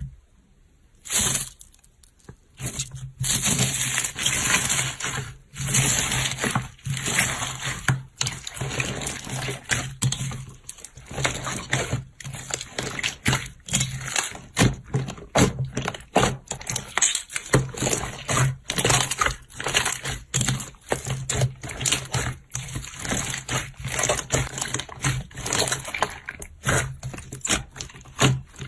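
Slime being squeezed and pressed by hand: a dense, irregular run of wet squishes and crackles that starts about a second in, over a faint low hum.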